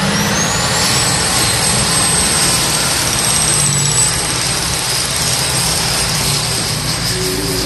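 Modified pulling tractor running at full power: a loud, steady roar with a high whine that rises over the first second and then holds.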